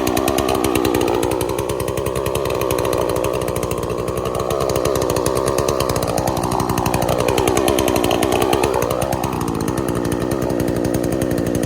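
Bilt Hard gas chainsaw running just after it fired up on a cold pull-start. It runs steadily, and about halfway through its engine speed dips and climbs back a couple of times.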